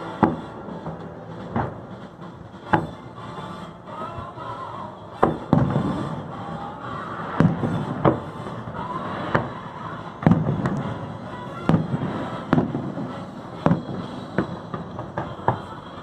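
Aerial fireworks shells bursting: about fifteen sharp bangs at uneven intervals, some coming in quick pairs, over a background of show music.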